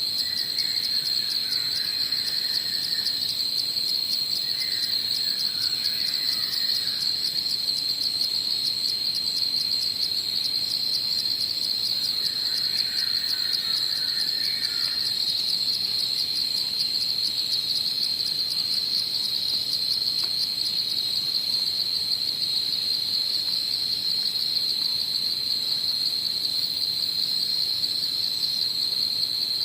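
Dusk chorus of insects: a steady, high, rapidly pulsing trill with no let-up. Fainter, lower chirping calls come in three times in the first half.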